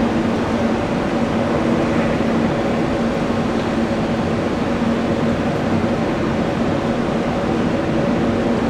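Jet airliner engines running steadily, with a constant low hum under an even rushing noise.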